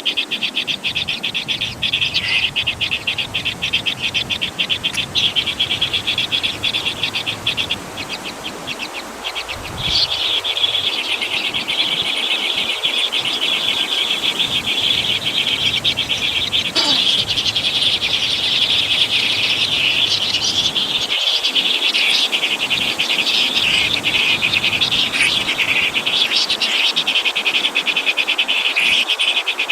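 Dense chorus of calling insects and frogs: a fast pulsing trill that thickens into a steadier buzz about ten seconds in, with one brief falling whistle about two-thirds of the way through.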